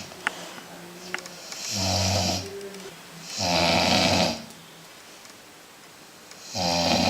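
Dog snoring loudly: three long snores about two to three seconds apart, the last starting near the end, with two small ticks in the first second or so.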